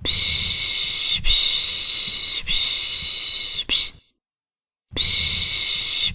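A person's soothing 'shh' shushing, the Turkish 'pış pış' used to calm a baby: three long hissing strokes of about a second each, a silent gap of under a second about four seconds in, then the shushing starts again.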